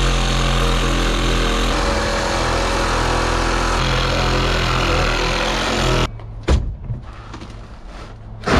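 A motor-driven machine running steadily with a loud hiss and a low hum, cutting off abruptly about six seconds in. A few scattered knocks follow.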